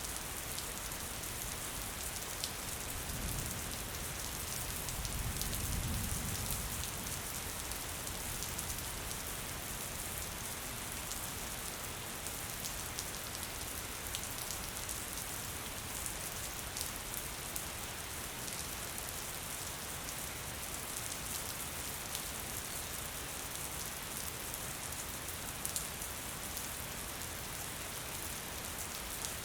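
Gentle rain falling steadily, an even hiss with scattered individual drops ticking. A low rumble swells briefly a few seconds in.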